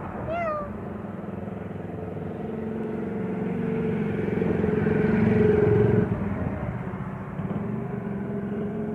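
A motor vehicle's engine hum passing by, growing louder for about five seconds, then falling away suddenly about six seconds in and continuing more faintly.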